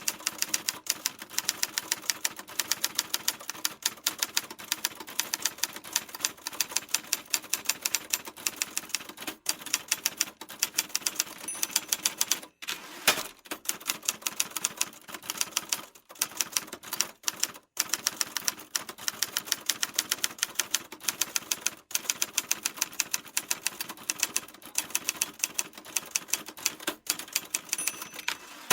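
Typewriter keys being struck in quick runs of sharp clacks, several a second, broken by brief pauses. There is one louder strike about 13 seconds in.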